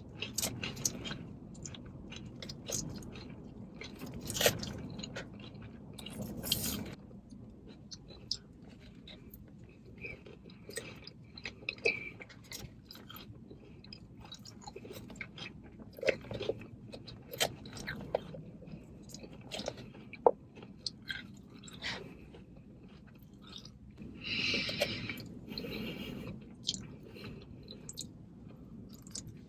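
Close-miked chewing and crunching of a salad, with many short sharp mouth clicks and smacks. There is a louder hissing stretch about 24 seconds in.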